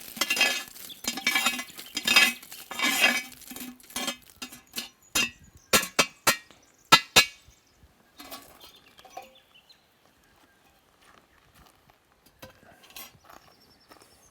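Metal utensils scraping and clinking against cookware and a plate as food is served: about four seconds of scraping, then a handful of sharp clinks, then quieter handling sounds.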